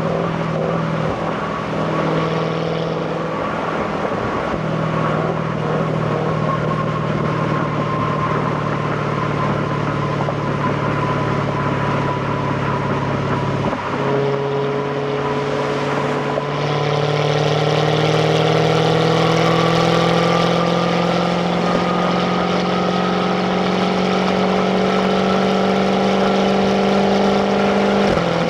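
Jaguar F-Type's supercharged 5.0-litre V8 on its stock exhaust, pulling at low revs and heard from inside the cabin. About halfway through, the engine note drops at an upshift. It then rises slowly and grows a little louder as the car gently accelerates.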